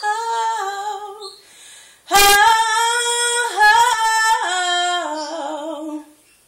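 A woman's unaccompanied voice singing wordless held notes and melismatic runs, with a short pause about two seconds in.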